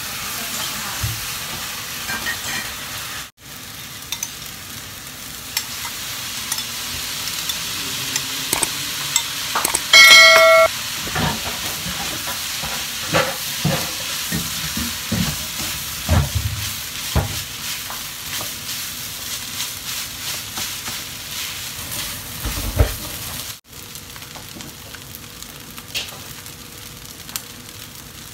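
Rice frying in a wok, sizzling steadily while a spatula scrapes and knocks against the pan. About ten seconds in comes a loud clang that rings briefly, the loudest sound.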